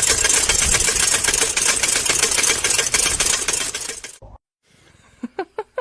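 A dog's new toy making a rapid, even mechanical clicking rattle, about ten clicks a second, that stops suddenly about four seconds in. Near the end comes a quick run of about six short squeaks.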